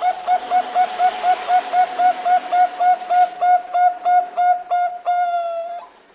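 Bangkok-type zebra dove (perkutut) singing: a rapid run of short coos, about four a second, ending in one longer, slightly falling note, over a steady hiss.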